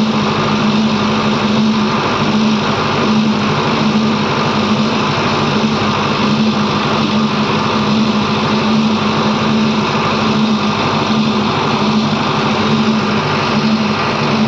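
Heavy diesel engine running steadily, its low hum swelling and fading about once a second.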